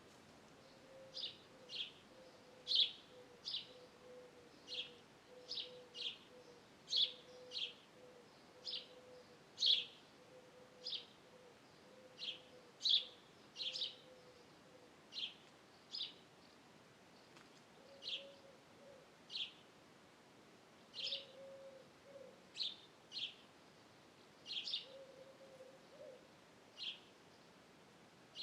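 Wild birds calling: short, sharp, high calls repeating about once a second, with a low, even run of hoot-like notes underneath for the first half, then a few short low notes later on.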